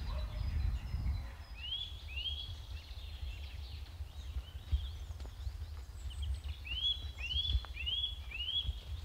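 A small bird calling: two short notes that rise and fall, about two seconds in, then four more in quick succession near the end, over a low steady rumble.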